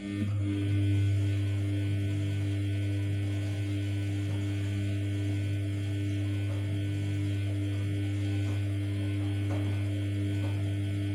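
Samsung P1271 washing machine's pump running with a steady low electric hum, which starts and stops abruptly after about eleven and a half seconds.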